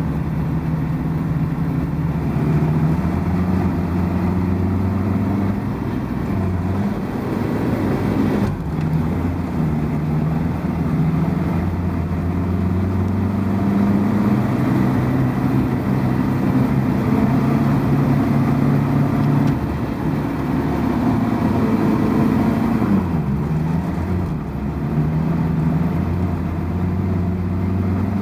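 Car engine running under load while driving on ice, its note rising and falling repeatedly as the revs change, heard from inside the cabin.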